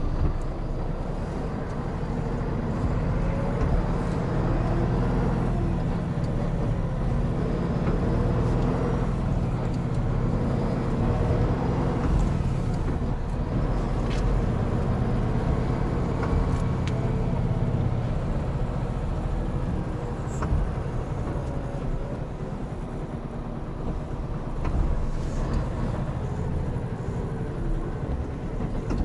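Hino Profia heavy truck driving at highway speed on a wet road: a steady diesel engine drone whose pitch drifts slightly, with constant tyre and road hiss and a few faint clicks.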